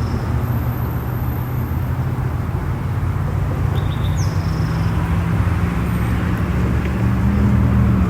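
Quadcopter drone propellers humming steadily with several low tones, the pitch creeping up slightly near the end.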